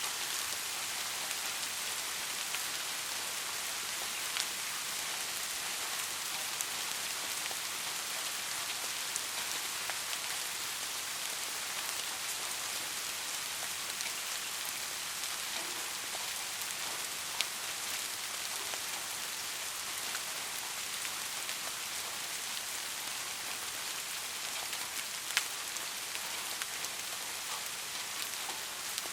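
Steady rain falling, an even hiss with scattered single drops, a few of them louder and sharper, near the start, a little past the middle and toward the end.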